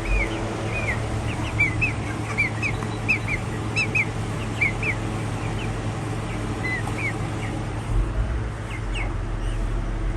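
Young Indian parrot-beak chicks peeping: a scatter of short, high chirps, some falling and some rising, several in quick succession at times, over a steady low hum.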